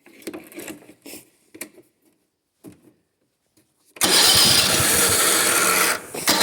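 Small gas lawnmower engine, run with its air filter removed, firing up about four seconds in and running loud with a fast pulsing beat. It falters for a moment near the end and then picks up again.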